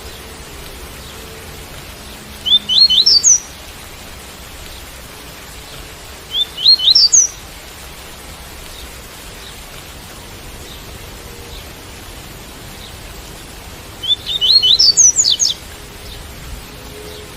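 Double-collared seedeater (coleiro) singing its tui-tui song: three short phrases of quick rising whistled notes, the last phrase the longest, over a steady hiss of rain.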